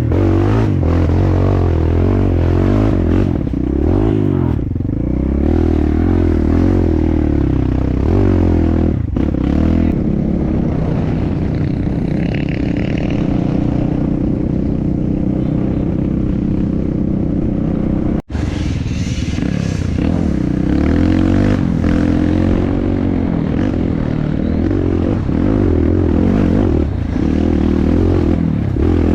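Dirt bike engine under way on a trail, its revs rising and falling constantly with throttle and gear changes. Scraping and clattering of the ride come through alongside. The sound drops out for an instant about two-thirds of the way through.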